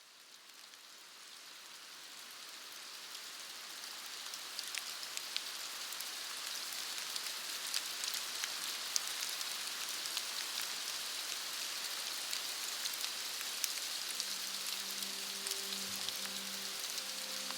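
Steady rain falling, a fine hiss with scattered drop ticks, fading in over the first few seconds. Faint held musical tones come in near the end.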